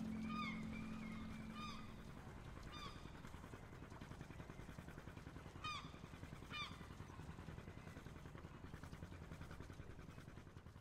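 Faint short honking bird calls, about five, spread over several seconds above a steady low rumble. A low held tone fades out over the first two seconds.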